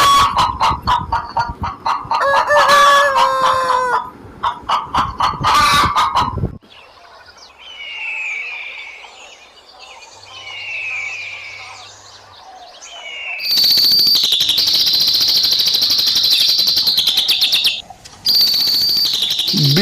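Chickens calling and a rooster crowing, then faint short falling bird chirps, then a loud steady high-pitched buzz for the last six seconds.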